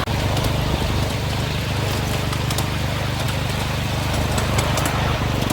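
Miniature railway train running along the track: a steady mechanical rumble with a fast, even ripple and scattered light clicks.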